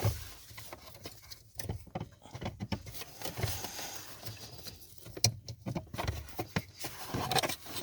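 Irregular plastic clicks and knocks as a Ford Focus 2 heater blower motor is worked out of its housing under the dashboard.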